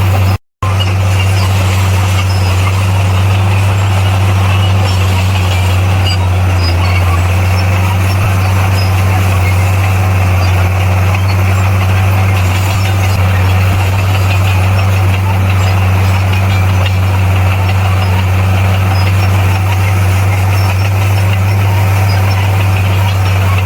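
Bulldozer's diesel engine running steadily under a deep, even hum, with the sound cutting out for a moment about half a second in.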